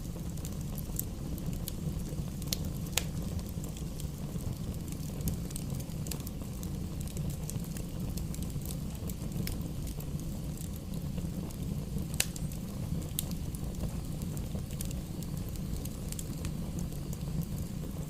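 Wood fire burning in a fireplace: a steady low rumble of flames with scattered sharp crackles and pops of the burning logs.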